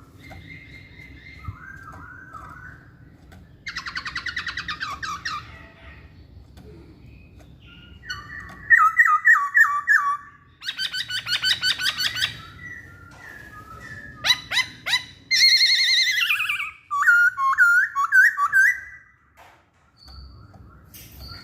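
Poksay Hongkong (black-throated laughingthrush) singing a long, varied song: loud whistled phrases, rapid trills and quick runs of repeated notes. The song breaks off briefly near the end.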